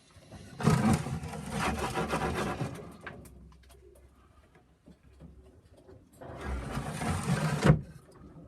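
Racing pigeons scuffling and flapping their wings in their loft boxes: two noisy bursts, the first about two seconds long, the second shorter and ending sharply near the end.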